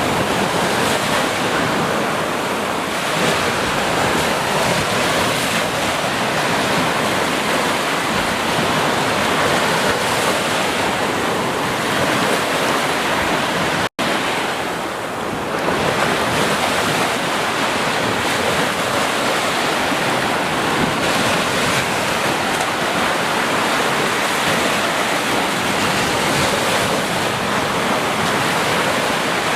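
Ocean surf on a beach: a steady, unbroken rush of waves breaking and washing in. The sound cuts out for an instant about halfway through, then resumes.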